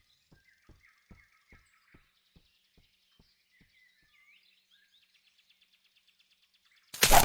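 Faint birds chirping over a soft, evenly spaced ticking, about two or three ticks a second, that fades away. Near the end a sudden loud burst of noise cuts in.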